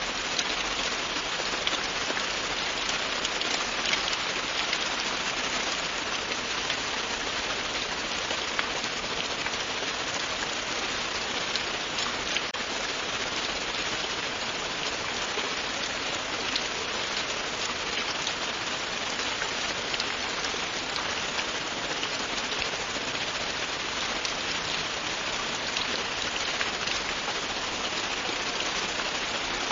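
Steady rain falling and pattering on a surface, a dense even hiss dotted with many small drop ticks.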